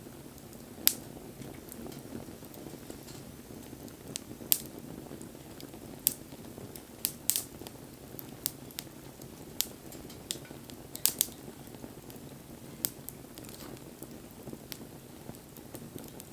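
Wood fire crackling: about a dozen sharp pops at irregular intervals over a steady low rushing of the flames.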